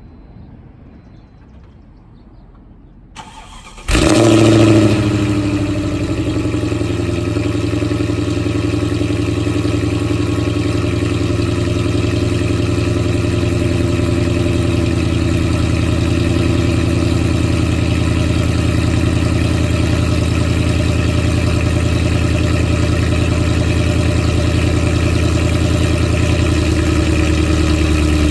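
Supercharged 5.4-litre V8 of a 2004 Mercedes E55 AMG, with long-tube headers, midpipe and CLS55 mufflers, cold-started. The starter turns briefly about three seconds in, and the engine catches with a loud flare about four seconds in. It then settles into a steady, slightly easing fast idle.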